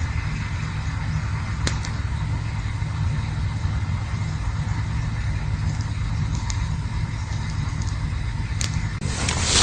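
Campfire burning with a steady low rumble and a few sharp, isolated pops. Near the end the crackling grows denser and louder.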